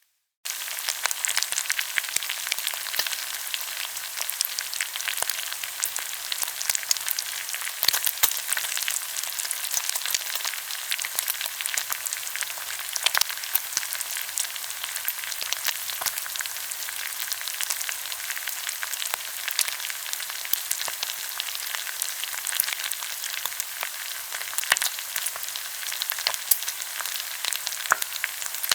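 Pork belly sizzling and crackling in hot fat on a grill pan, a dense steady spatter with scattered louder pops, starting suddenly about half a second in.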